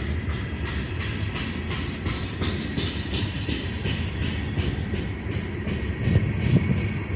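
Freight train cars rolling past, their wheels clacking over rail joints in a quick run of clicks over a steady low rumble. Wind buffets the microphone near the end.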